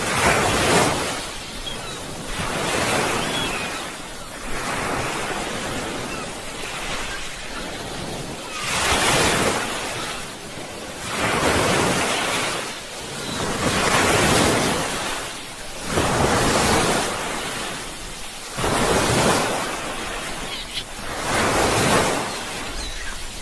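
Sea waves breaking, the surf rising and falling in one surge after another about every two and a half seconds.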